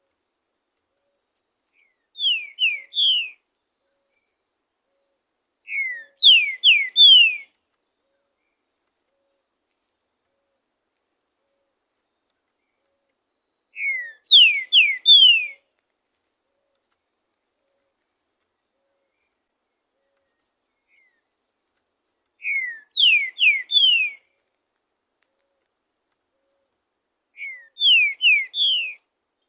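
Green-winged saltator (trinca-ferro) singing: five short phrases of three or four quickly falling notes, each phrase about a second or two long, with several seconds of silence between them.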